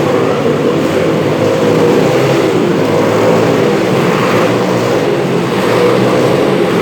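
Several motorcycle engines running together, loud and steady, as the riders circle inside a globe of death.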